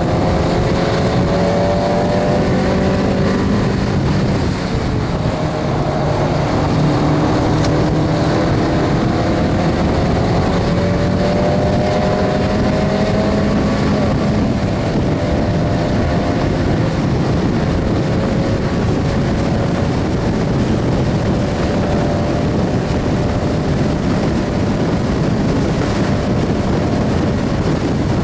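Mazda MX-5 Miata's four-cylinder engine pulling under racing load, heard inside the open cabin: its pitch climbs slowly through long stretches of gear, with a brief dip in level about four and a half seconds in, over heavy wind and road noise.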